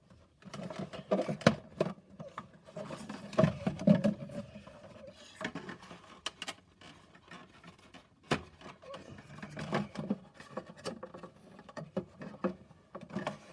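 Cardboard pieces being handled and fitted together: irregular rustling, scraping and sharp clicks as tabs are pushed into slots.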